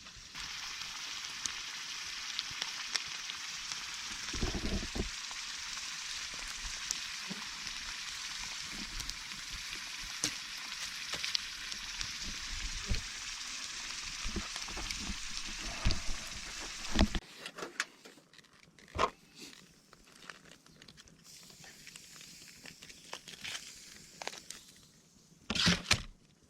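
Food sizzling in a hot pan over a campfire, a steady hiss with fine crackles that cuts off suddenly about two-thirds of the way in. Scattered light knocks and clatter follow.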